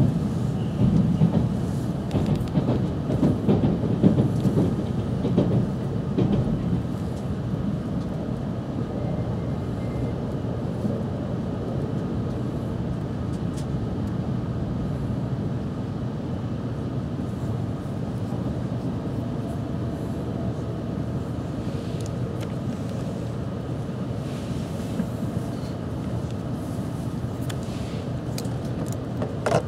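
Running noise inside a JR West 700-series shinkansen car as the train gathers speed: a continuous rumble of wheels on rail. It is rougher and more uneven for the first several seconds, then settles into an even noise.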